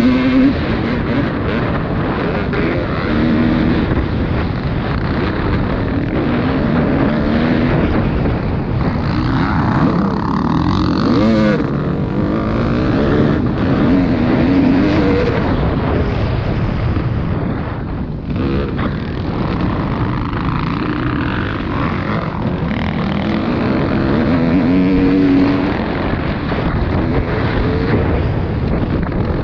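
Several motocross bike engines revving as they ride round the track, the pitch rising and falling with throttle and gear changes.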